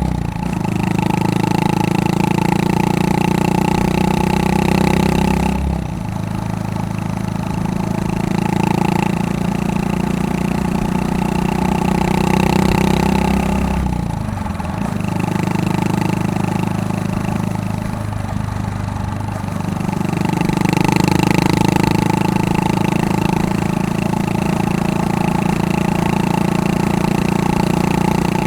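Honda Super Cub 110 (JA59) single-cylinder four-stroke engine running through a Takegawa P-Shooter aftermarket muffler while riding. The engine note drops suddenly about five and a half seconds in, falls away around fourteen seconds as the bike slows, and builds again around twenty seconds.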